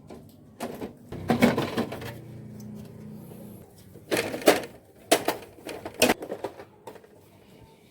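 A series of sharp clicks and knocks, with a low hum from about a second in to the middle, typical of hard plastic and metal parts being handled during work on a copier.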